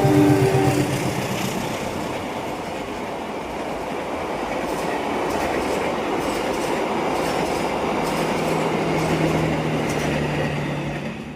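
Indonesian train passing: the end of a horn blast in the first second, then steady wheel and rail noise with a light clickety-clack. A low steady hum joins in the second half, and the sound fades near the end.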